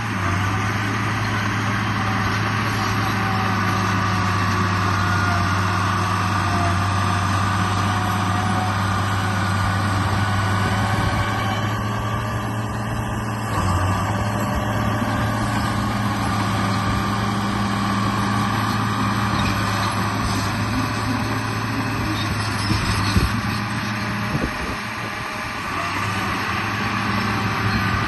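Radio-controlled bulldozer running, with a steady low engine-like drone that dips briefly near the end.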